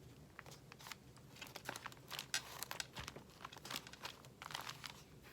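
Faint, irregular rustling and crinkling of paper, with small scattered clicks, as paper ephemera is handled and pressed down in a journal.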